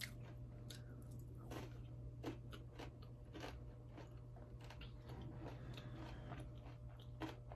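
A person chewing a mouthful of gingerbread cake: faint, irregular mouth clicks and smacks, over a steady low hum.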